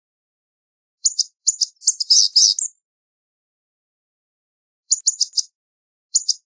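Blue-gray gnatcatcher giving a quick run of short, thin, high notes about a second in, then a shorter group of notes near the end.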